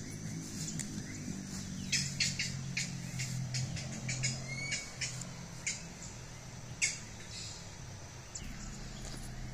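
Birds calling in short, sharp chirps and squawks, several in quick succession in the middle of the stretch, over a low, steady hum.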